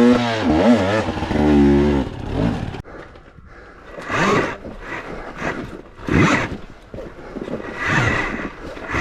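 Dirt bike engine revving, its pitch rising and falling for about two seconds, then three short throttle bursts about two seconds apart.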